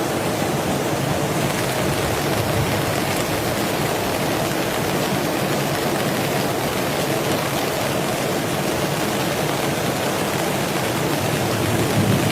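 Heavy rain falling steadily: a dense, even hiss with no let-up, growing a little louder near the end.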